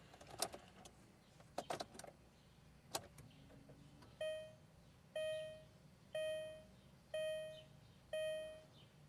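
VW Beetle's dashboard warning chime sounding five times, evenly about once a second, each tone struck and fading, after a few sharp clicks near the start.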